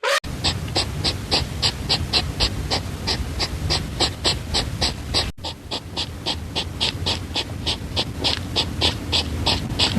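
An animal panting rapidly in an even rhythm, about three to four breaths a second, with a brief break about halfway through.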